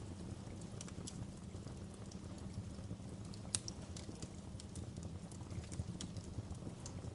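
Wood fire burning in a fireplace: a low steady rush of flames with scattered sharp crackles and pops, the loudest pop about three and a half seconds in.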